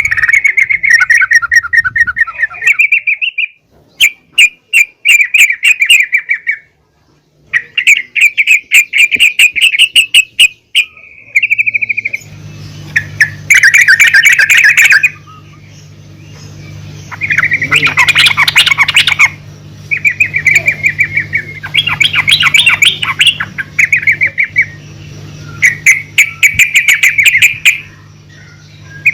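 Female yellow-vented bulbul (trucukan) calling: repeated runs of rapid, chattering notes a few seconds long, separated by short pauses. A steady low hum comes in about twelve seconds in and stays underneath.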